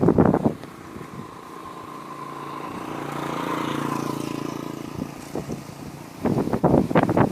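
Strong wind buffeting the microphone in rumbling gusts at the start and again near the end. In between, a motor vehicle's engine passes, growing louder to a peak midway and then fading.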